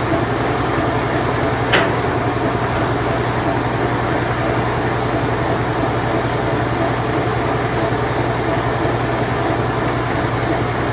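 Late-1980s Whirlpool Imperial Clean Touch washing machine running on its spin cycle: a steady hum with an even rushing noise. There is one sharp click a little under two seconds in.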